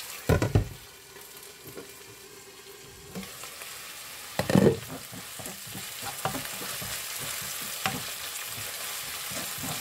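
Chopped onions, green chillies and garlic-ginger paste sizzling steadily in hot oil in a pan, stirred with a wooden spatula. The spatula strikes the pan loudly twice, about half a second in and again about four and a half seconds in, with lighter clicks of stirring in between.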